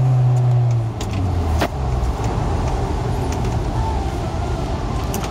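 Kia Sorento SUV being driven, heard from inside the cabin: a steady engine drone under road and tyre noise from a wet road. The engine note drops lower about a second in, and a single click comes a little later.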